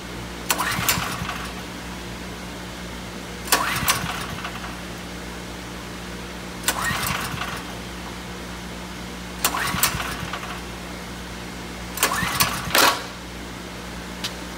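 Ryobi portable generator's recoil starter pulled five times, about every three seconds, the last pull a quick double. The engine turns over with each pull but never catches: a generator that won't start, even from cold. A steady low hum runs underneath.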